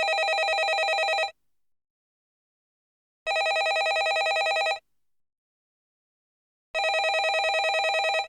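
Landline telephone ringing: three rings of about a second and a half each with a fast warble, evenly spaced with silent gaps between them.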